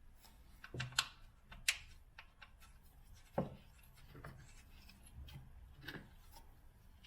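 Faint, scattered clicks and light knocks of hand tools and parts being handled during work on a car, with the sharpest clicks about a second in.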